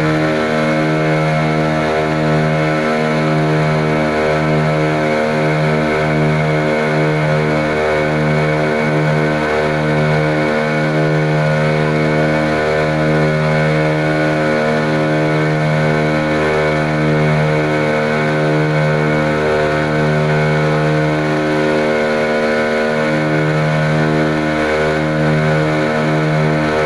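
Boat engine running steadily with a loud, even drone.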